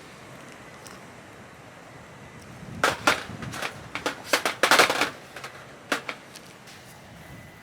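A quick run of sharp clicks and knocks, about a dozen over three seconds starting about three seconds in, as of small objects being handled and set down.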